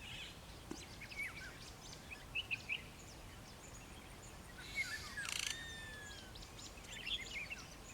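Faint mixed bush birdsong of scattered short chirps and whistles, with a lizard buzzard's whistled call among them; a long drawn-out whistle comes about five seconds in.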